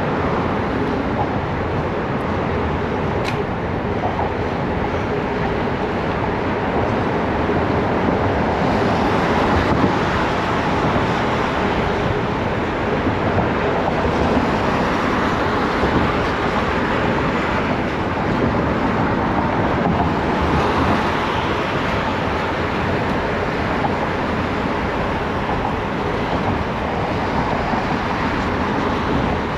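Steady rushing noise of riding a gravel bike in city traffic: wind and tyre noise on a chest-mounted action camera, mixed with passing vehicles. A brief click about three seconds in.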